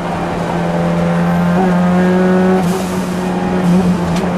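Ford Sierra Cosworth's turbocharged four-cylinder engine pulling at high, steady revs, heard from inside the rally car's cabin, with short dips in revs about two and a half and three and a half seconds in and a sharp click near the end.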